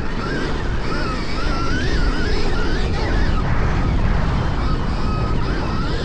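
Stark Varg electric dirt bike's motor whining, rising and falling in pitch with the throttle, over heavy wind rush on the microphone.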